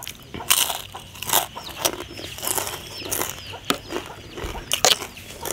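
Crunching bites and chewing of a crispy fried morsel, sharp crunches coming about once a second.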